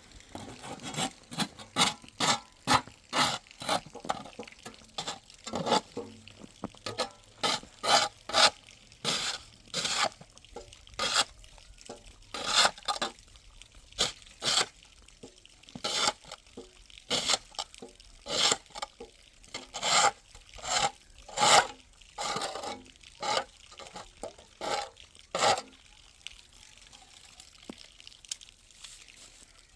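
Snow crunching in a long run of short, sharp strokes, irregular and roughly two a second, with a few brief pauses.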